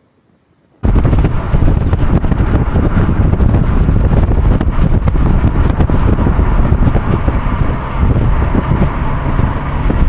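Wind buffeting the microphone, a loud, low rumble that starts suddenly about a second in and holds steady.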